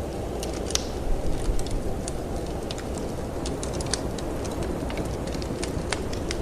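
Wood fire crackling in a fireplace, irregular sharp pops and snaps over a steady low rumble of wind.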